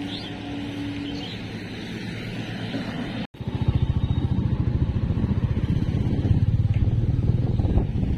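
Road traffic noise with a steady hum. After a sudden cut about three seconds in, a motorcycle engine runs close by, its firing pulses loud and even as the bike rides.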